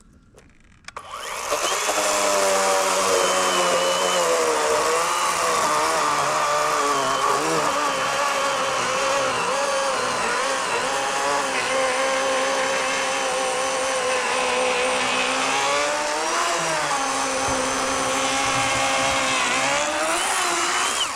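Battery-powered 40-volt Worx WG384.9 chainsaw with an 18-inch Oregon bar starting up about a second in and cutting through a fallen log. Its motor whine dips in pitch a few times as the chain loads up in the wood, then cuts off suddenly near the end.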